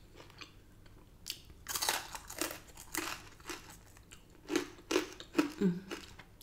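Close-up crunching and chewing of crispy oven-cooked chicken wings, in irregular bites with short quiet gaps between them.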